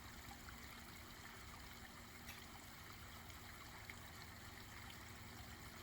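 Faint, steady trickle of a backyard pond waterfall.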